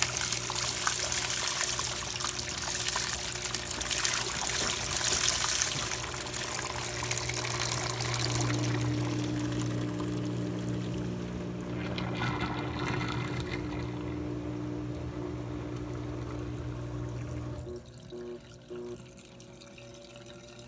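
Top-load impeller washing machine draining: water rushes out over the steady hum of the drain pump. The water noise dies down after about eight seconds, the hum carries on alone, and it stops suddenly near the end.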